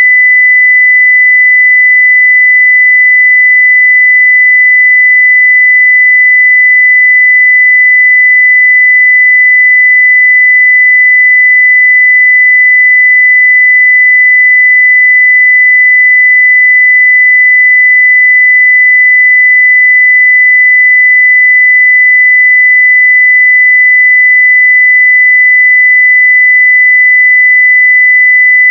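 A steady 2 kHz sine-wave test tone at full level, one pure high pitch with no change.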